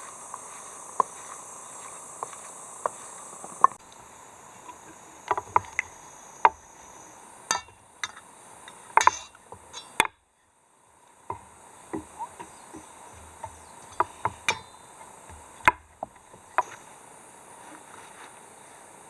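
Irregular sharp knocks and clicks, a few a second at their busiest, over a steady drone of insects.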